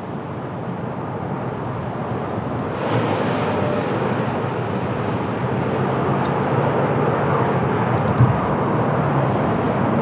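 Jet airliner on approach to land, its engine noise a steady rush growing louder as it nears.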